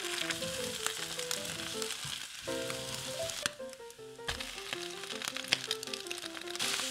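Eggs sizzling as they fry in a hot nonstick pan. The sizzle drops away for about a second near the middle, then comes back as cooked rice goes into the pan.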